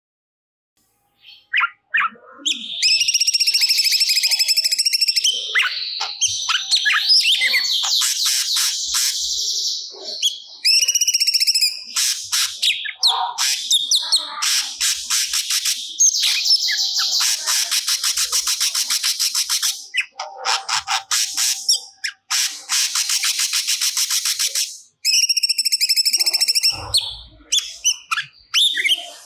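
Cucak cungkok singing a loud, unbroken stream of varied song after a short silence at the start. It mixes whistled phrases with long runs of rapid repeated notes, the varied 'isian' material that the bird has picked up and stored.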